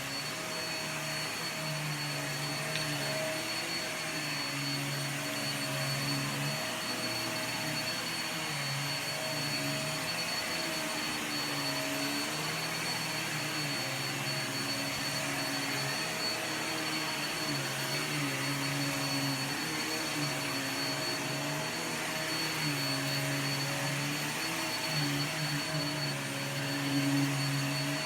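Vacuum cleaner running steadily with a high whine, over a lower hum that wavers and shifts in pitch now and then.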